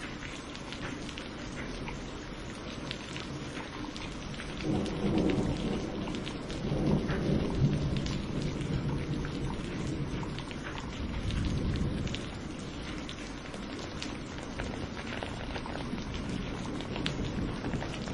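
Steady rain falling, with distinct drops hitting close by, and thunder rumbling low: a first roll about five seconds in, a stronger one a couple of seconds later, and another softer swell near the middle.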